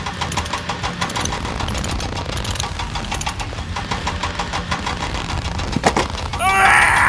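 A vehicle engine running steadily with rapid, even firing pulses. About six seconds in there is a sharp click, followed near the end by a loud burst of high, bending squeal-like tones.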